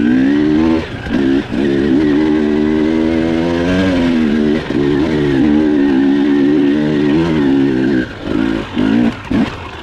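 Dirt bike engine being ridden, its pitch climbing and falling with the throttle, with short drops as the throttle is rolled off, several in quick succession near the end.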